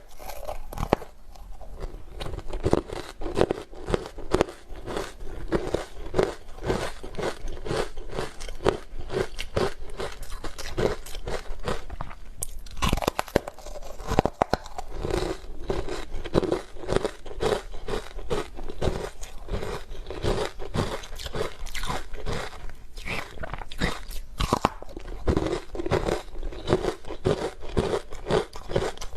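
Hard frozen ice being bitten and chewed: a continuous run of sharp crunches, several a second, with a brief lull about twelve seconds in.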